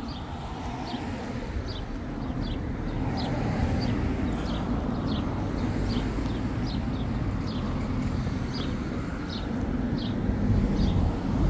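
A small bird chirping over and over, one short high chirp about every half second, over a steady low rumble of street noise that swells near the end.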